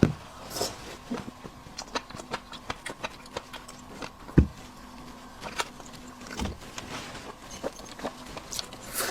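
A large shrimp being handled and peeled by hand: scattered small shell clicks and crackles, with a few dull knocks, the loudest about four seconds in.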